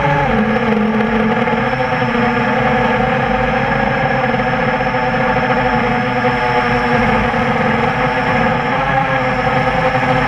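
Whine of a QAV400 quadcopter's four Tiger MT-2212 brushless motors and 8-inch propellers, heard from the onboard camera. The pitch drops sharply just after the start as the throttle eases, then holds fairly steady with small wavers as the quad flies.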